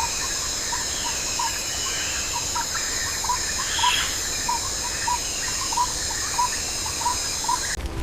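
Natural ambience: a steady, high-pitched drone of several tones, like an insect chorus, with a short chirp repeated two or three times a second. The drone stops shortly before the end.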